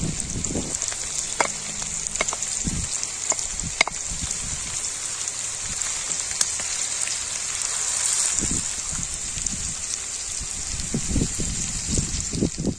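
Beef, potatoes and vegetables sizzling on a hot iron saj griddle: a steady frying hiss with scattered sharp pops. A few dull knocks come as a wooden spoon stirs the food on the griddle.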